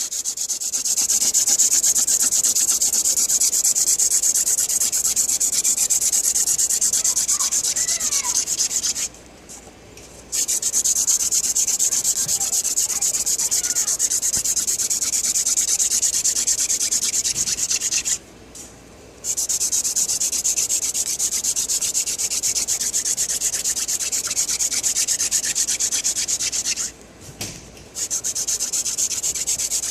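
Hand drill fire-making: a horseweed spindle spun fast back and forth between the palms, its tip grinding in the notch of a wooden fireboard with a steady rasping hiss. It stops briefly three times, about 9, 18 and 27 seconds in, then starts again. The drilling is making only brown dust, with no black dust and no ember yet.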